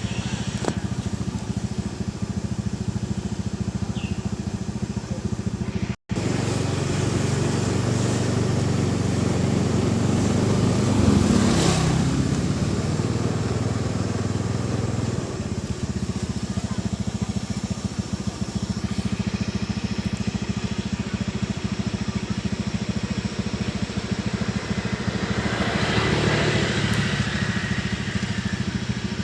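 A small engine running steadily, briefly cut off about six seconds in and a little louder for a while afterwards.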